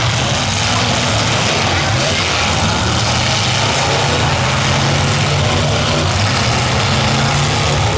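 Demolition derby cars' V8 engines running together steadily and loudly, with no crashes heard.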